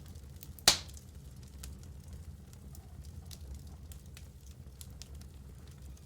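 Wood fire burning in a fireplace: a steady low rumble with scattered small crackles, and one loud sharp pop less than a second in.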